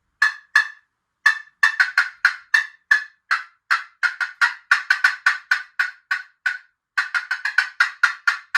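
Hen turkey cutting imitated on a turkey call: a long, irregular run of short, sharp popping clucks, some spaced apart and others bunched together fast. Cutting is the excited call of a hen turkey.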